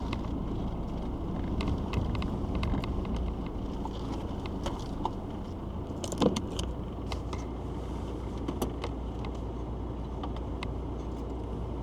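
Citroën XM running, heard from inside the cabin: a steady low rumble with scattered light clicks and rattles, and a louder knock about six seconds in.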